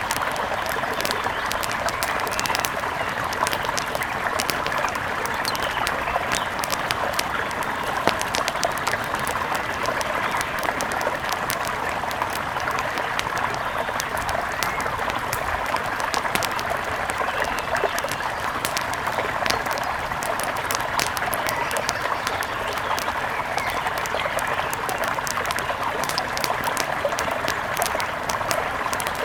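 Mountain river flowing steadily, an even rushing with many small sharp ticks scattered through it.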